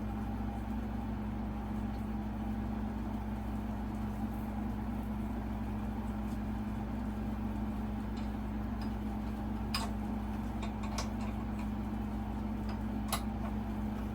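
Steady low hum, with a few sharp light metal clicks in the second half from fan-blade hardware being handled.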